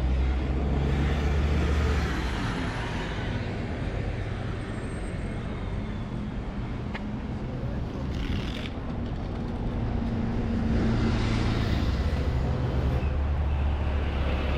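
City street traffic: a steady hum of heavy vehicle engines running close by, with road noise around it and a brief click about halfway through.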